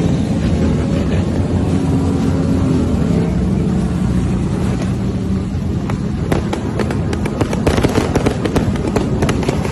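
Motorcycle engine running steadily, with a rapid, irregular run of sharp cracks and pops starting about six seconds in.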